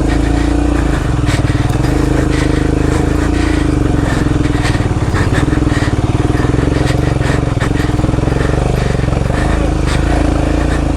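Royal Enfield Himalayan's single-cylinder engine running under load at fairly steady revs on a rough off-road climb, with repeated knocks and clatter from the bike working over loose rocky ground.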